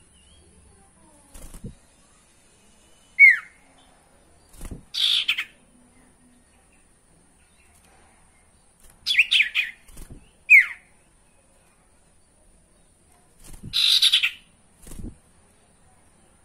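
Common iora calling: sharp down-slurred whistles, a quick run of slurred notes, and two rougher harsh calls, spaced by pauses. Soft low thumps come in between.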